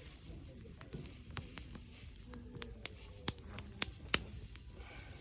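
Wood campfire crackling, with irregular sharp pops and snaps, the loudest about four seconds in.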